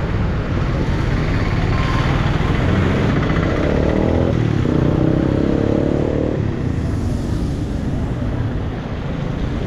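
Street traffic noise with a steady low rumble; a motor vehicle's engine passes close by from about three to six seconds in, its pitch sliding as it goes.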